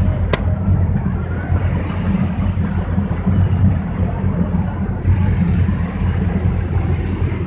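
Motorboat underway: a steady low engine rumble with a broad hiss over it, and one sharp click about half a second in.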